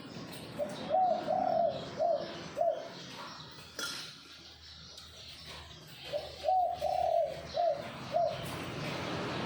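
Zebra dove (perkutut) cooing in two song phrases of about five notes each, the first starting about a second in and the second about six seconds in. A single click falls between them.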